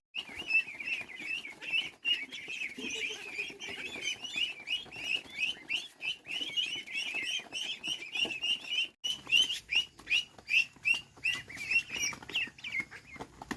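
A flock of ducklings peeping: many short, high calls overlapping without pause, broken off twice for an instant.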